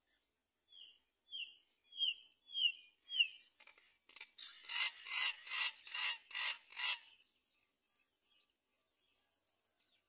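Bird calls: a run of five short, clear, falling chirps about two a second, followed by six harsher, raspy calls over about three seconds.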